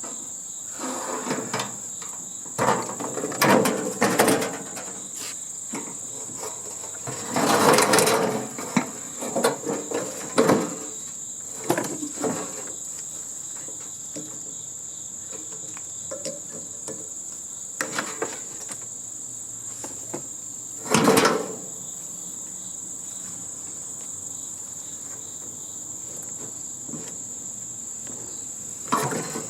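Irregular metal clanks, knocks and rattles from a heating and air-conditioning unit being dismantled for scrap, the loudest about 8 and 21 seconds in, over a steady high-pitched whine.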